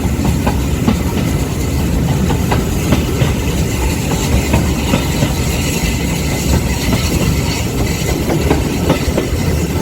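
Passenger coach of a steam-hauled heritage train running along the line, heard from on board: a steady rumble with the wheels clicking over the rail joints.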